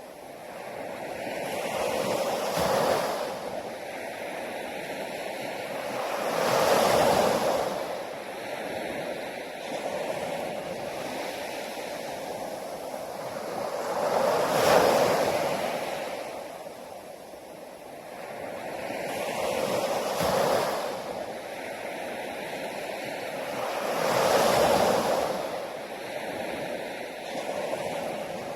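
Sea waves breaking on a shore. The surf swells and draws back in slow surges every few seconds, about six waves in all, with the biggest near a quarter and halfway through.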